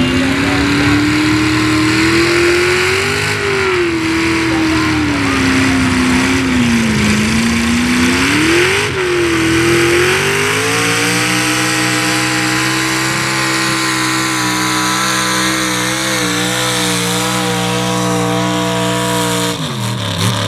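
Pulling truck's engine at high revs during a sled pull. The revs swing up and down for the first ten seconds, then hold high and steady before dropping off sharply near the end.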